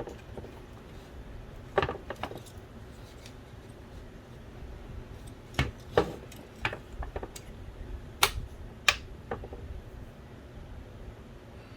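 Small hard parts of a disassembled Philips DVD drive being handled. There are scattered clicks and light taps, a few around two seconds in and a denser run in the middle, the sharpest two close together about eight and nine seconds in.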